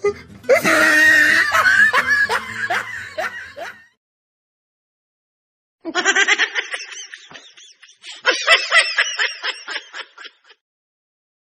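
Human laughter: a drawn-out voiced laugh, then after a short silence two runs of quick, pulsed snickering.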